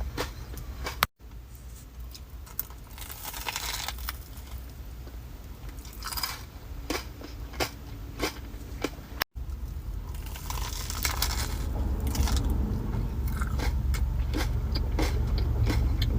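Close-up crunchy biting and chewing of a fried Korean corn dog, the crisp batter crackling between the teeth. There are many short crunches, and the sound cuts out abruptly twice.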